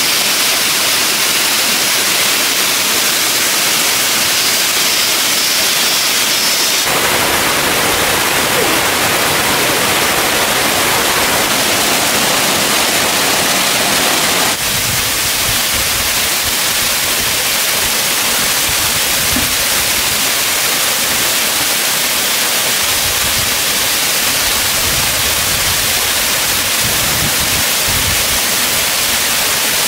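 Steady, loud rush of falling water from a mountain stream waterfall. Its tone changes abruptly twice, about seven seconds in and again about halfway through.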